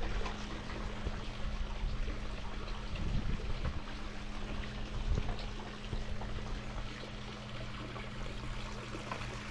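Swimming pool water flowing and trickling steadily, over a steady low hum.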